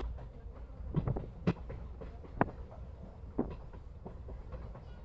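Passenger train running: a steady low rumble of the moving carriage, with a few sharp, irregular knocks and clanks from the coach.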